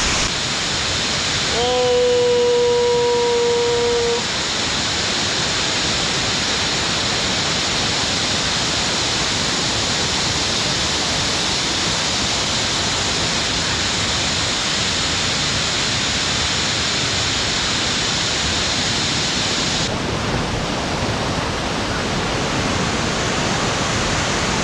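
Waterfall rushing steadily. About two seconds in, a held, steady pitched tone with overtones sounds over it for about two and a half seconds.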